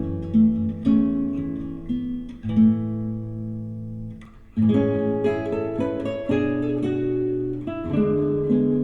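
Acoustic guitar music with strummed and plucked chords, played back through a KEF powered speaker and picked up by microphone. The playing drops away briefly about four seconds in, then resumes.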